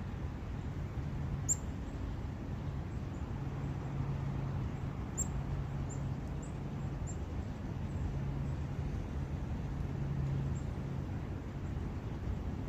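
Forest ambience by a brook: a steady low rush of running water with a constant low hum underneath, and small birds giving short high chirps scattered throughout.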